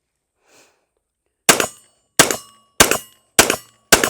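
Sarsilmaz SAR9 METE 9mm pistol fired five times in quick succession, roughly one shot every 0.6 seconds, starting about a second and a half in.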